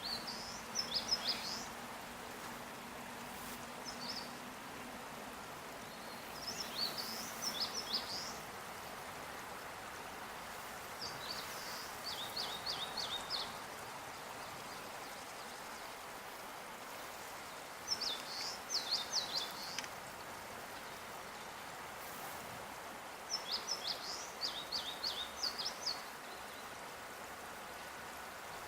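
A songbird singing a short phrase of quick, high, downward-sweeping notes, repeated about every five seconds, over steady outdoor background noise.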